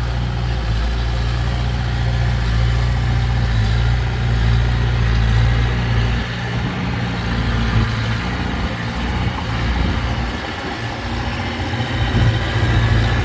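Heavy diesel engine of earth-moving machinery running steadily, with a low engine note that eases off about six seconds in.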